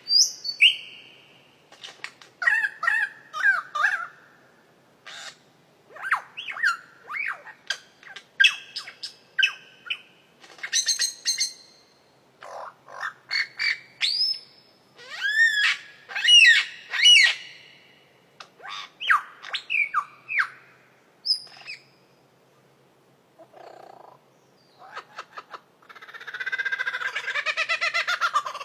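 A bird calling in short bouts of varied whistles, chirps, clicks and squawks, many gliding up or down in pitch, with a longer, harsher chattering run near the end.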